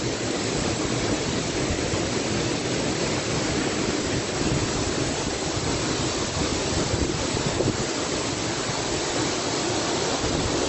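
Tall waterfall plunging into its pool at close range: a steady, dense rush of falling water and spray.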